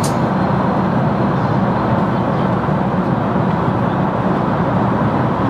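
Steady roar of an airliner cabin in cruise flight: an even rushing noise from the engines and air flow, with no changes.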